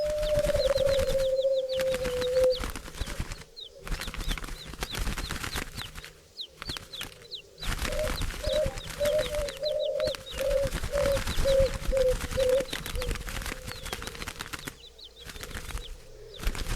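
Doves cooing: one drawn-out low coo that sags slightly in pitch, then about halfway through a run of a dozen short low cooing notes. Small birds chirp thin, high, falling notes throughout over a rustle like wing flaps, and the sound cuts out abruptly several times.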